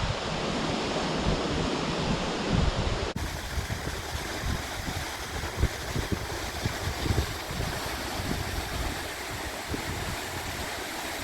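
Steady rush of Karuru Falls' falling water, heard as an even hiss-like roar, with wind buffeting the microphone in gusty low rumbles. The sound shifts abruptly about three seconds in.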